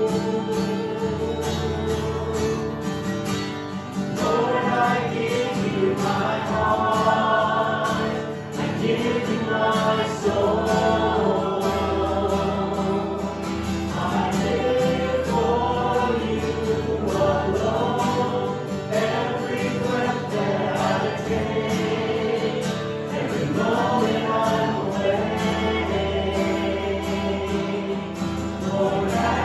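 Christian worship song: a group of voices singing over strummed guitar and sustained band chords, with the voices coming in about four seconds in.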